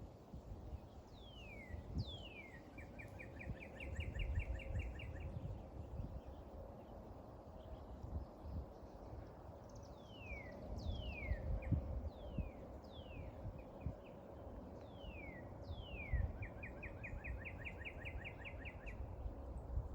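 A songbird singing outdoors: a couple of falling whistled notes running into a fast, even trill, heard twice, with more single falling whistles in between. Underneath is a low, uneven rumbling background noise.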